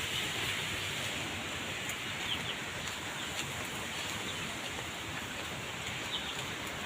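Outdoor nature ambience: a steady hiss with a few short bird chirps now and then.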